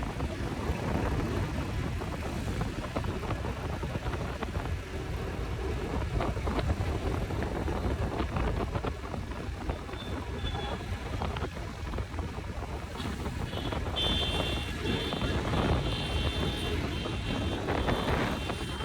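Motorcycle on the move, with wind buffeting the microphone over the engine and road noise. About three-quarters of the way through, a run of short, high-pitched beeps starts and repeats to the end.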